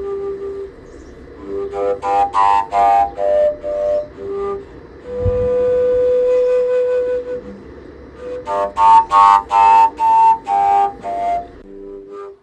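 Flute playing a melody of short notes that hop in pitch, with one long held note about five seconds in.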